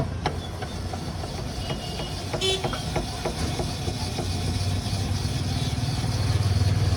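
A steady low engine hum that grows a little louder near the end, with scattered light clicks and clatter.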